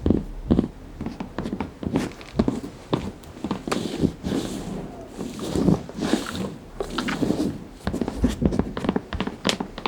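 Close-miked eating of crunchy fruit: irregular crunching bites and chewing, many sharp crackles a second with a few softer hissy stretches.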